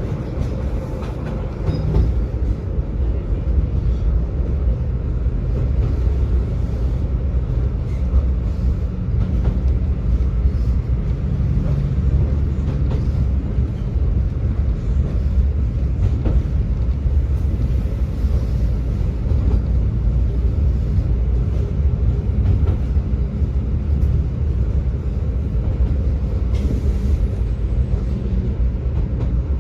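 Tram running along its track: a steady low rumble of wheels on rails under a low motor hum, with occasional clicks from the track.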